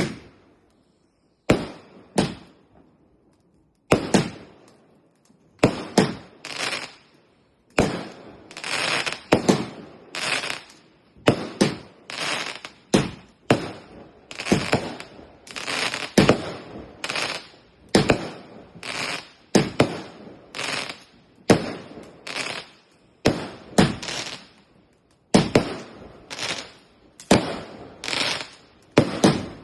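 Fireworks going off in a rapid barrage: sharp bangs, each with a short echoing tail, sparse for the first few seconds and then about one to two a second.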